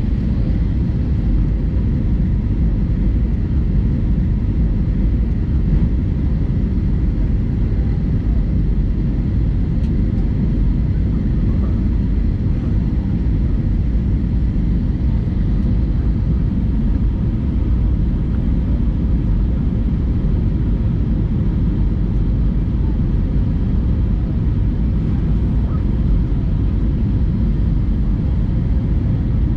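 Steady low rumble of an Airbus A320-200 in flight, heard from inside the passenger cabin: engine and airflow noise, with a few faint steady tones above it.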